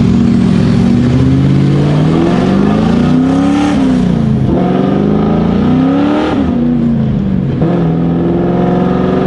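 Straight-piped, cammed Ford 4.6L V8 of a New Edge Mustang accelerating through the gears, heard from inside the cabin: the revs climb, fall at an upshift just before four seconds in, climb again and fall at a second upshift a little past six seconds, then hold steady at cruise.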